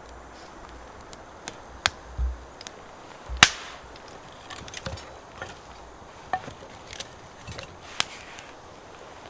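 Firewood being broken up for a campfire: irregular sharp cracks and knocks of wood, the loudest about three and a half seconds in.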